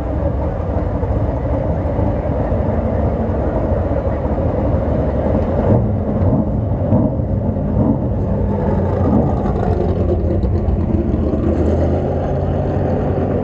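BriscaF1 stock car's V8 engine running continuously, heard on board. Its high end thins out about six seconds in.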